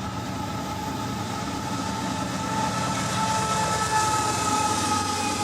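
A train running past: a dense low rumble and rattle of rolling wheels, with steady high-pitched tones held over it, and hiss building in the second half.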